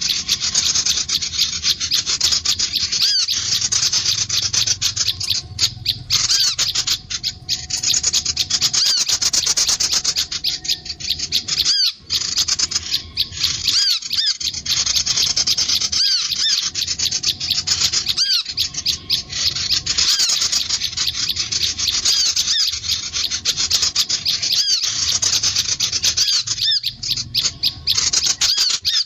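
Sunbirds and prinias calling in a dense, unbroken stream of rapid, high, scratchy chirps and twitters, a bird-lure recording.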